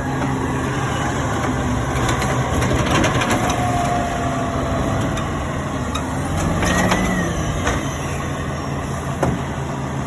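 Garbage truck engine running steadily, with a few scattered clicks and faint brief whines over it.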